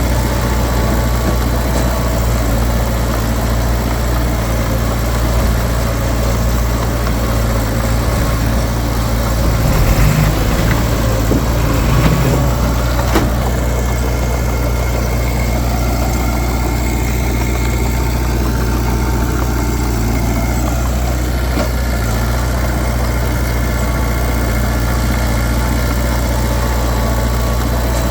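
Heavy diesel earthmoving machinery running steadily with a low engine drone. It swells briefly about ten and twelve seconds in, and there is one sharp knock shortly after.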